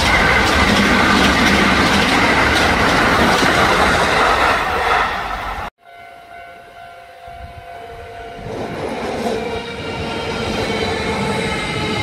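A train running, loud with a rushing noise. After a sudden cut a little under six seconds in, a quieter train sound with several steady humming tones builds up gradually.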